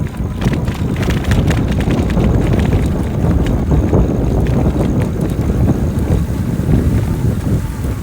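Wind rumbling on the microphone of a moving e-bike, with many quick clicks and rattles in the first three seconds as it rides over rough, sandy trail.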